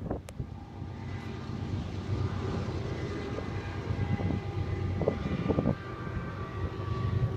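Distant BNSF autorack freight train's diesel locomotives running as the train crosses an elevated bridge, a steady low rumble with faint steady tones above it, and wind buffeting the microphone. A brief click right at the start.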